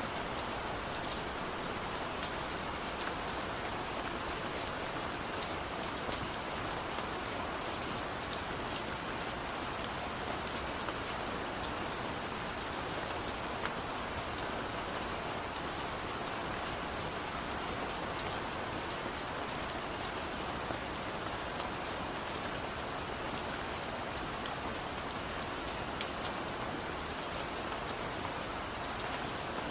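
Steady rain falling: an even hiss with scattered sharp drop ticks and no thunder.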